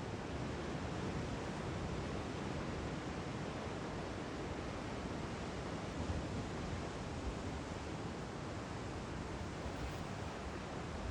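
Steady wash of ocean surf mixed with wind noise, with no bird calls standing out.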